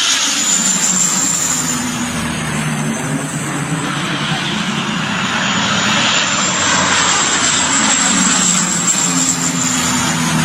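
Firefighting airplane's engines running steadily as it flies low: a continuous loud drone with a high whine over it.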